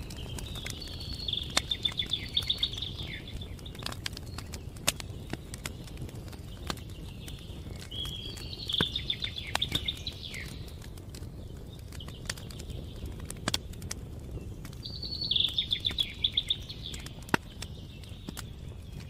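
Campfire crackling with scattered sharp pops, under a low steady rumble. A songbird sings the same short trilled phrase three times, each about two to three seconds long, roughly every six to seven seconds.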